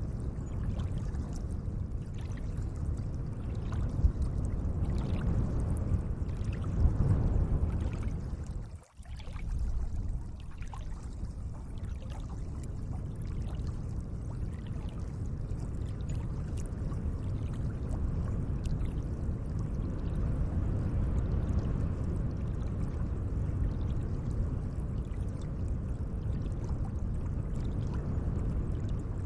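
Gentle lake water lapping and trickling: a steady watery wash with many small splashes. The sound dips out for a moment about nine seconds in.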